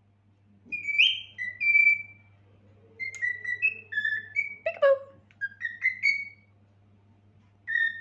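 Cockatiel whistling a tune in short, clear notes: a brief phrase, then a longer run of quick notes broken by one sharper call, and more whistling near the end.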